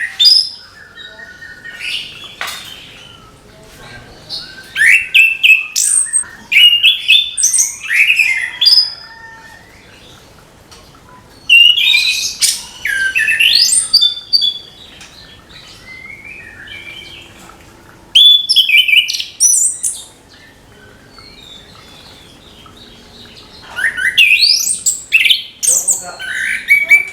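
Chestnut-capped thrush (anis kembang) singing: four bouts of quick, high, varied chirping phrases, each a few seconds long, with pauses in between.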